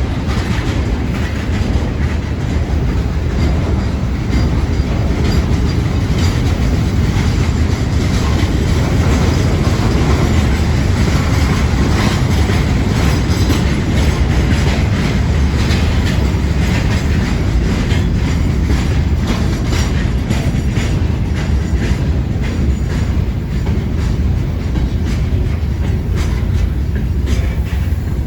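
Freight train rolling past, its wagon wheels clattering over the rail joints with a steady heavy rumble and a continual run of clicks.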